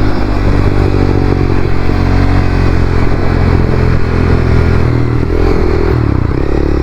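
Honda CBR300R single-cylinder motorcycle engine running under way, its note shifting about six seconds in.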